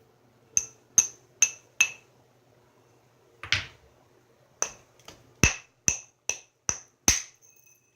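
Hammerstone making light, quick taps on the edge of a knapped stone biface to set up isolated striking platforms. Each tap is a sharp click with a brief glassy ring: four taps, a softer scrape in the middle, then seven more taps.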